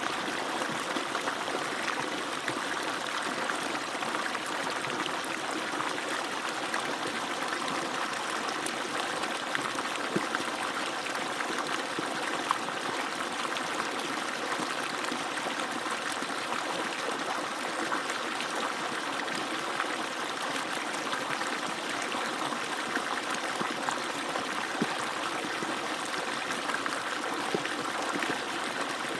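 Water pouring steadily from an agricultural pump's outlet pipe and splashing below, an even rushing splash with small droplet clicks.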